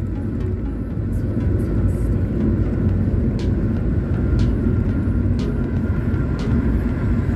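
Suzuki SX4 driving at highway speed: a steady low rumble of engine and tyre noise. From about three seconds in there are faint light ticks, roughly once a second.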